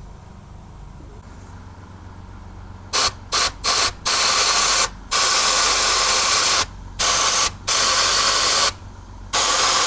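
Pneumatic underseal spray gun fired in bursts: three quick squirts, then longer hissing blasts of air and spray with short pauses between, over a steady low hum. The gun is not spraying properly.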